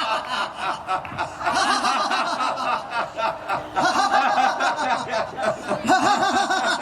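A group laughing together on cue in a laughter yoga exercise: rhythmic, forced 'ha-ha' laughter in repeated bursts.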